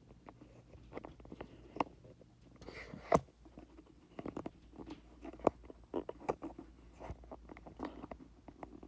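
Handling noise: irregular clicks, taps and light knocks as something is turned over and repositioned by hand close to the microphone, with one sharp knock about three seconds in.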